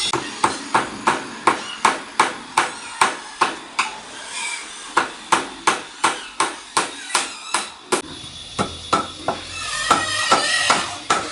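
Rapid repeated tool strikes, about three a second, with a short pause about four seconds in and fewer strikes near the end.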